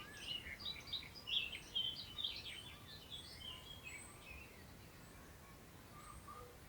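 Wild songbird song: a quick, jumbled run of short, varied notes, busiest in the first three seconds and thinning out after, with faint thin high notes now and then. A soft hiss of wind through long grass underlies it.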